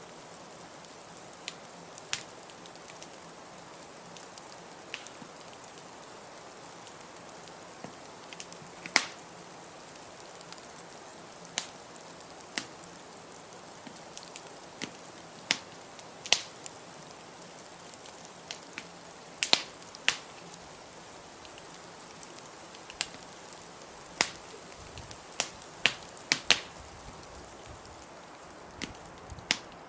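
Wood fire in a fireplace crackling: irregular sharp pops and snaps, some loud, over a steady soft hiss.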